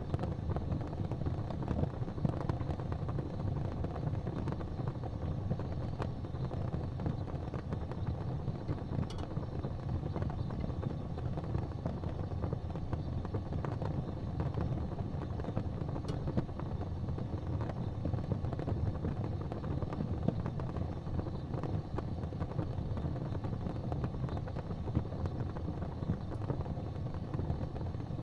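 Fire burning in a fireplace: a steady low rumble with a few faint pops.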